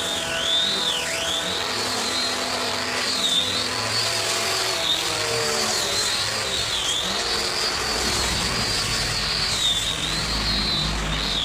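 High-speed electric power tool running with a steady high whine, its pitch dipping briefly several times as it loads up cutting into wood. A low rumble joins in during the last few seconds.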